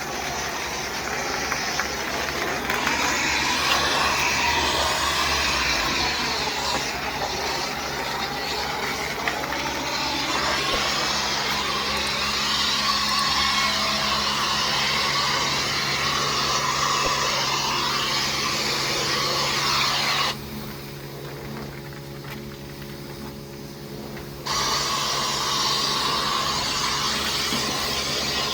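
Pressure washer spraying, a steady hiss of water over the hum of its motor. About twenty seconds in the spray stops for about four seconds while the hum keeps going, then it starts again.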